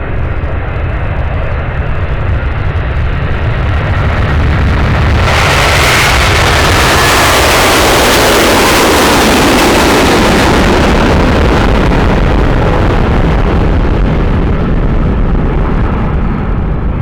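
Jet airliner's engines at take-off power as the plane passes close: the noise rises sharply about five seconds in, stays loud for several seconds, then slowly fades.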